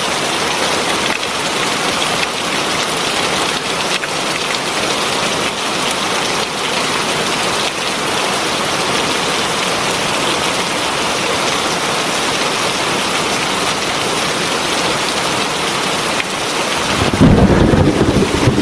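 Heavy rain falling steadily, an even hiss. About 17 seconds in, a loud low rumble of thunder rolls in over the rain.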